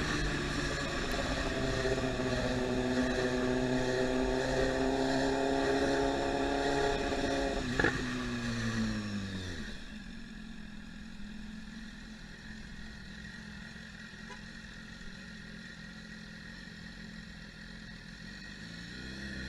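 Motorcycle engine pulling and slowly rising in pitch for several seconds, then a sharp click as the pitch drops away and the engine settles to a quieter steady run.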